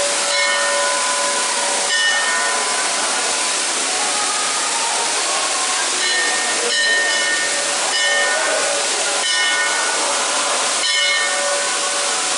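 Small waterfall's falling water rushing steadily, with brief, faint pitched sounds showing through it every second or two.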